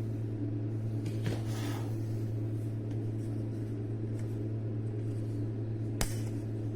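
A steady low hum, with a short hiss about a second in and a single sharp click near the end.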